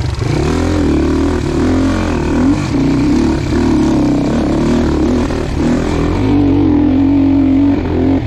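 Dirt bike engine revving hard, its note rising and falling again and again as the throttle is worked on rough ground.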